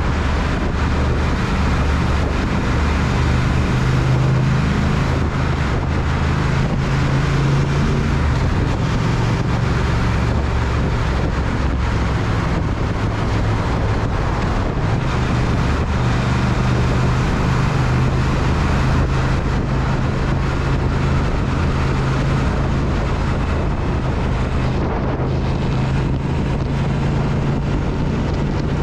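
Triumph Speed Twin parallel-twin engine running at a steady cruising speed, its pitch shifting only a little, with wind rushing over the microphone.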